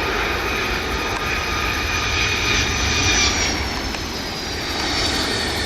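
Jet airliner passing with its engines running, a steady rush of noise topped by a high turbine whine that slowly falls in pitch from about halfway through.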